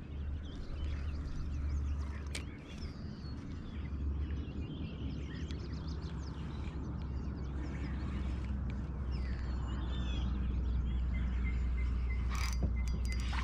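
Birds chirping faintly over a steady low rumble, with a few light clicks and one sharper knock near the end.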